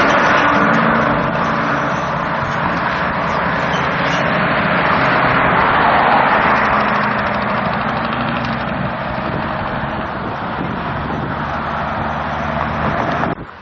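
A motor vehicle's engine running steadily under a loud, even rushing noise, which cuts off abruptly near the end.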